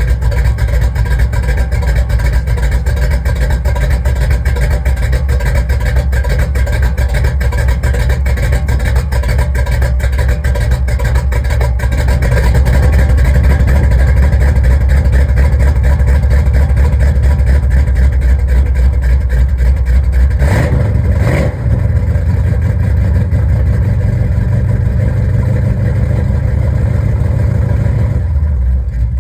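Small-block V8 in a Chevrolet C10 pickup running through an aftermarket exhaust: a steady, loud low rumble. About two-thirds of the way through there are two quick blips, after which the rumble settles a little higher in pitch.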